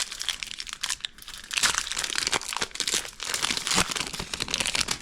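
Wrapper of a trading-card pack crinkling and tearing as it is worked open by hand, a dense run of crackles and rips.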